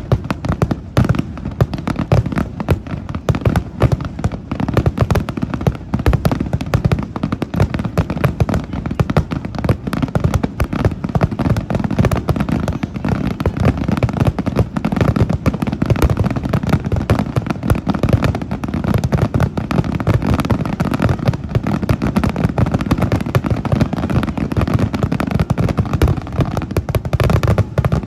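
Fireworks going off in a dense, continuous barrage of bangs and crackling, many per second, with no pause until just before the end.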